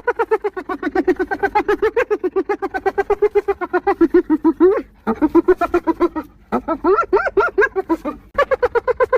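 Spotted hyena giggling: rapid high-pitched laugh notes, about ten a second, in a few runs separated by brief pauses.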